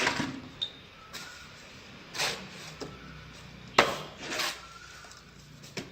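Tile-setting work: several short scrapes and sharp knocks of tools on tile and mortar, spaced a second or two apart.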